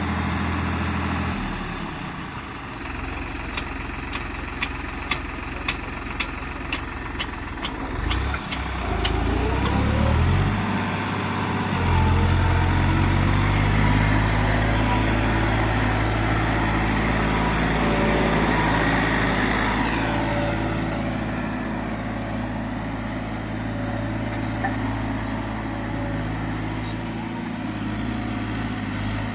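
Tractor diesel engine running, with a run of about ten sharp clicks at roughly two a second in the first third. About a third of the way in the engine revs up, then holds a steady, louder note.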